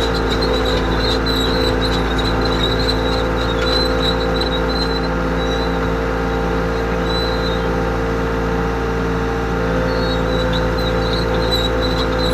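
Cat 248B skid steer's diesel engine running steadily after its repair, with a high, wavering whine on top.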